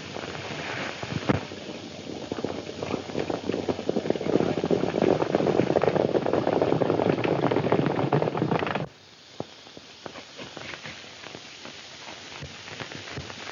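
Horses' hoofbeats as a group of riders gallops away, a dense clatter on an old, hissy film soundtrack. It cuts off abruptly about nine seconds in, leaving a quieter stretch with scattered clicks.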